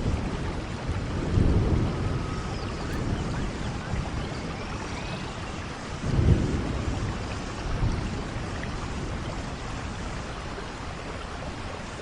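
Steady rainfall with low rumbles of thunder that swell up about a second and a half in and again around six seconds.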